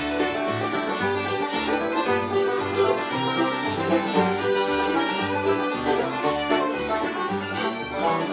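Bluegrass band playing an instrumental intro, with banjo rolls, fiddle and guitar over a steady alternating bass pulse.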